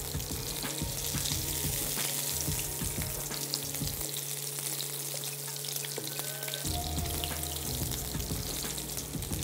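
Chitol fish dumplings sizzling as they shallow-fry in hot mustard oil in a non-stick pan. Small scrapes and taps come from a wooden spatula turning them.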